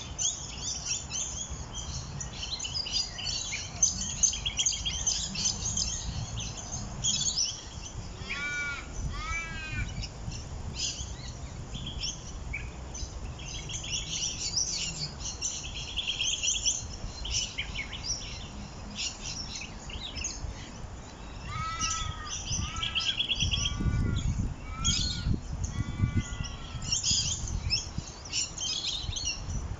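Small birds chirping and twittering continuously in high, quick notes. Twice, a run of lower, arched whistled notes is repeated several times in quick succession: once around a third of the way in and again about three-quarters through. A low rumble rises under the birdsong about two-thirds of the way through.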